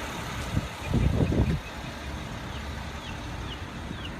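Steady low vehicle engine rumble, swelling louder for about a second near the start. Faint short high chirps repeat in the second half.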